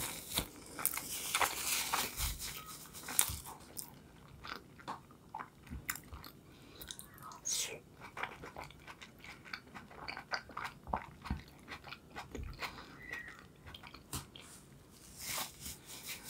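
Close-miked chewing with the mouth closed: a scatter of small wet clicks and smacks of food being chewed.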